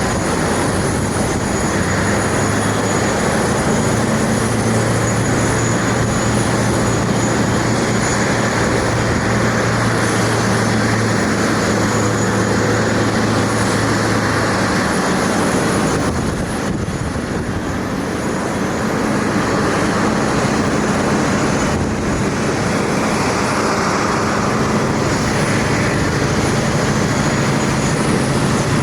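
Jet airliner engines running loud and steady, a dense noise with a low hum under it, easing off briefly about two-thirds of the way through.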